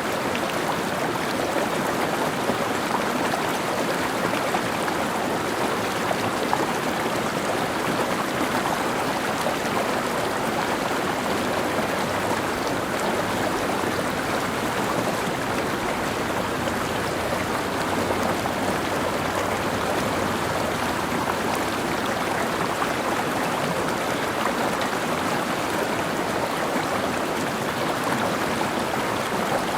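Mountain stream flowing steadily over rocks, an even rush of water.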